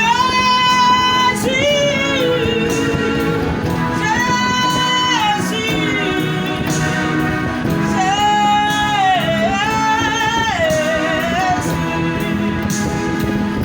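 Gospel song: a singer holds long notes with vibrato and slides between them over a steady band accompaniment.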